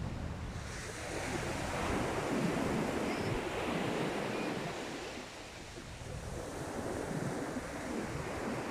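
Sea waves breaking and washing on the beach. One surge builds about a second in and eases off around five seconds, then the next wave builds.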